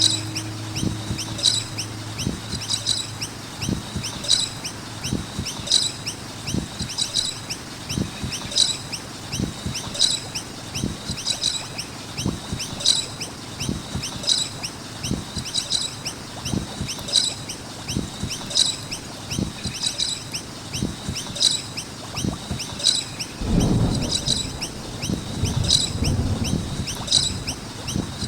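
Noisy miners calling, a high chirp repeated about every second and a half, over scattered low knocks. A low rumble rises for a few seconds near the end.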